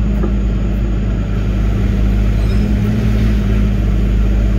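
Link-Belt 145 excavator's diesel engine running at a steady speed, a constant hum.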